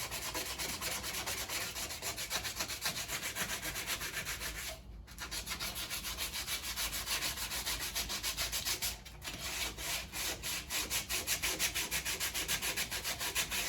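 Sandpaper rubbed by hand over the painted steel of a car's door jamb, in quick, even back-and-forth strokes with two short pauses. The sanding scuffs off the old clear coat so that primer will stick.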